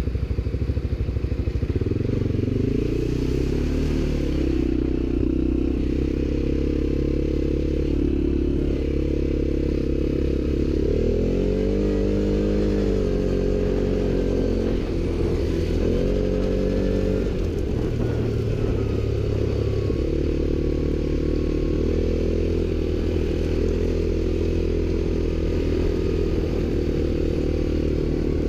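ATV engine running throughout, the throttle opened and closed several times so the engine note rises and falls, most clearly about eleven and fifteen seconds in.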